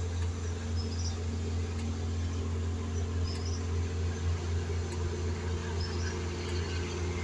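Ferry boat's engine running with a steady low drone. Faint short high chirps recur every couple of seconds.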